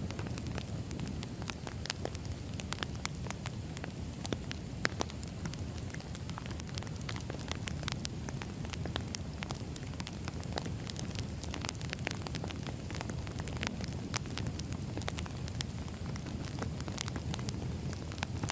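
Burning firewood crackling: frequent irregular sharp pops and snaps over a steady low rumble.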